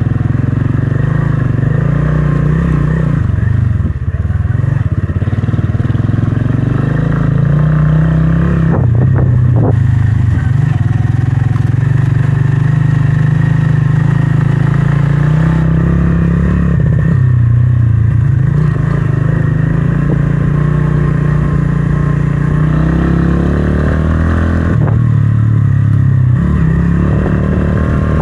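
Motorcycle engine running while riding, its low note dropping and rising several times as the throttle and gears change.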